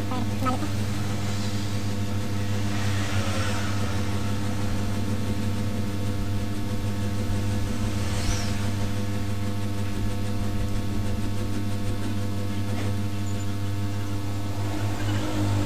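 Steady low electrical hum with a fan whir from workbench electronics equipment running while a voltage is injected into a shorted laptop board.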